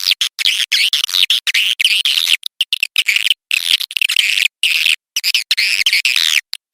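Swiftlets twittering in rapid, high chirps, the kind of call recording played to lure swiftlets to nest; the sound keeps cutting out for split seconds.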